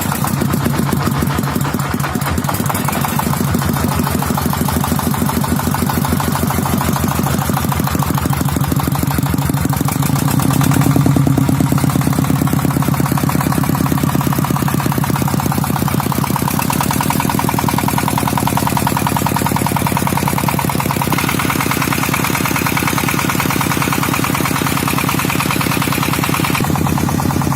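Diesel engine running steadily with a rapid, even knocking beat; it grows a little louder about eleven seconds in, then settles.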